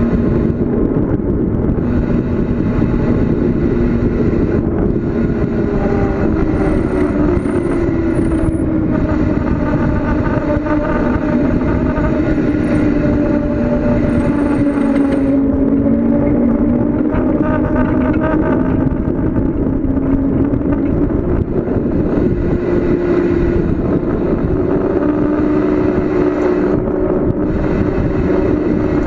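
Steady loud rush of wind and road noise from a bicycle descending at speed, with a hum that slowly rises and falls in pitch.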